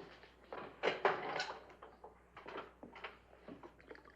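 A run of light knocks and clatters, loudest about a second in, like cups and kitchen things being handled while coffee is made.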